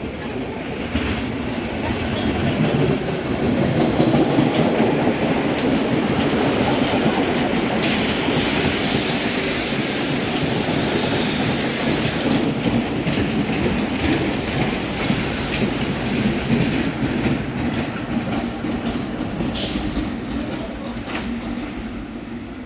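New York City subway train running past on the rails with clattering wheels, swelling over the first few seconds and fading near the end. A high hiss or squeal joins for about four seconds, starting about eight seconds in.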